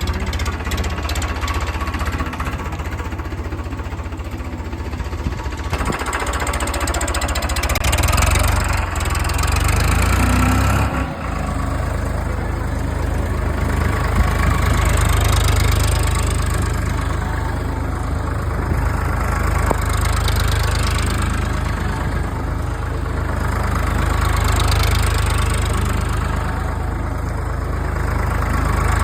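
Tractor diesel engine running, its speed rising and falling in several swells.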